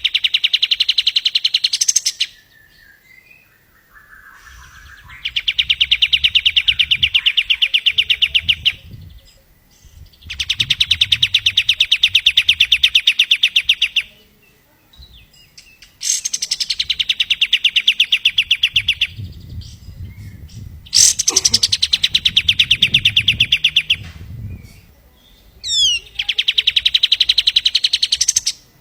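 Kapas tembak songbird singing its rapid machine-gun-like trill, repeated six times. Each burst is a fast string of even notes lasting two to four seconds, with a brief separate call shortly before the last.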